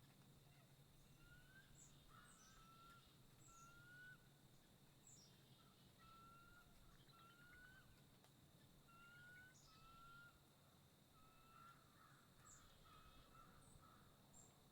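Faint birdsong: short rising whistled notes repeated about once a second, mixed with brief high notes that drop in pitch, over a steady low hum.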